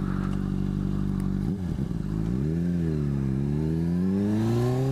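Motorcycle engine running at a steady pitch, with a brief dip about a second and a half in. Then the pitch wavers and climbs steadily as the bike accelerates.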